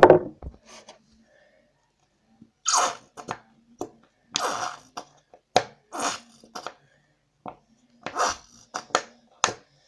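Aerosol shaving foam can sputtering foam out in short hissing bursts, several times, as it is emptied.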